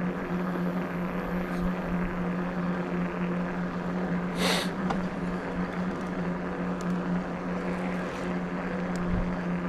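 Electric bike's motor humming at a steady pitch while riding, over a constant rush of rolling and air noise, with one brief hiss about four and a half seconds in.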